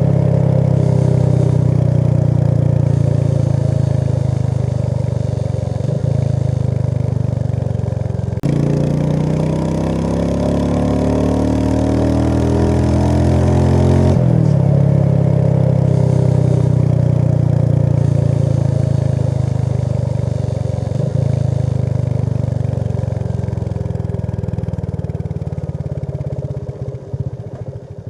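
A vehicle engine running steadily while under way. Its note changes abruptly twice through the middle, then drops to a slow, even pulsing near the end.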